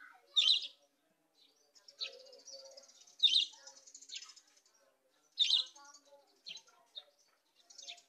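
Birds calling: three loud, short, high-pitched chirps, with fainter low collared-dove coos between them.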